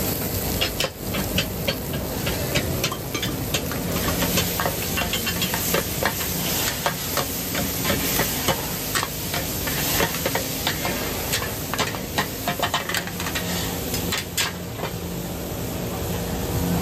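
Food frying in a hot pan, with a metal utensil stirring it in many quick, sharp clinks and scrapes that thin out near the end.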